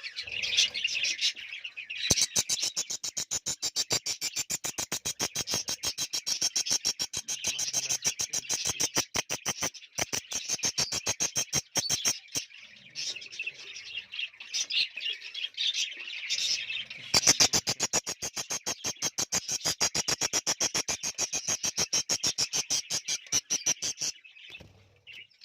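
Budgerigars chirping and chattering in an aviary colony. Through most of it runs a fast, even train of sharp pulses, many per second, in two long runs with a short break between them.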